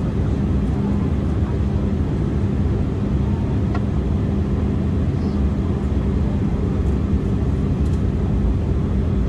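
Steady cabin noise of an Embraer E175 airliner in flight: an even rush of airflow and engine noise with a steady low hum.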